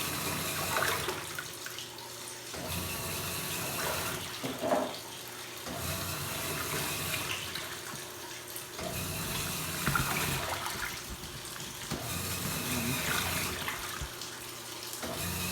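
Top-loading washing machine agitating a load of laundry in soapy water: water sloshing and churning, with a low motor drone that comes and goes in spells of about three seconds as the agitator works.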